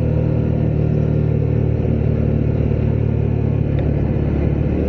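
Honda CB125R's single-cylinder 125cc engine running at a steady pitch while the motorcycle is ridden along, with road and wind noise underneath.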